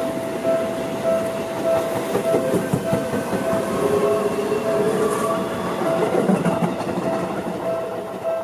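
Seibu Ikebukuro Line commuter train passing close by, its wheels rumbling and clicking over the rails, with a brief motor whine in the middle. A level-crossing warning bell rings steadily about twice a second under it.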